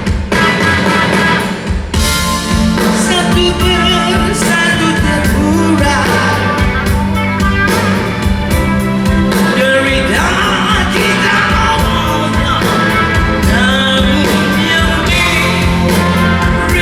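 Rock band playing live with singing over a loud, dense full-band mix.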